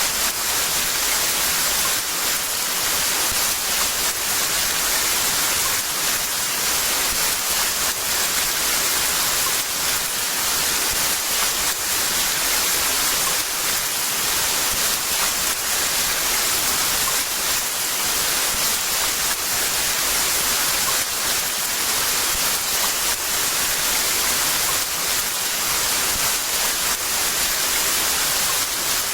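Heavy rain falling in a steady, dense hiss, with no distinct drops or thunder.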